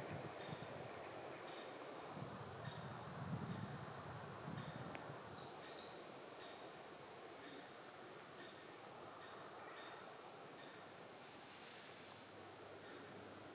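A small bird repeating a high, thin down-slurred note about twice a second, over a faint steady outdoor hiss.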